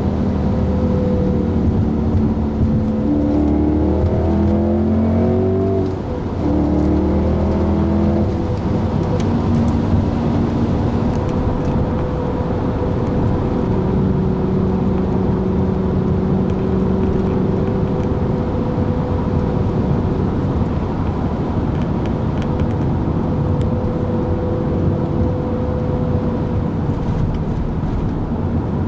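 Supercharged 4.2-litre V8 of an Audi S5 through an APR RSC performance exhaust, accelerating with its pitch rising, dropping briefly at a gear change about six seconds in and climbing again. It then settles to a steady engine speed, cruising.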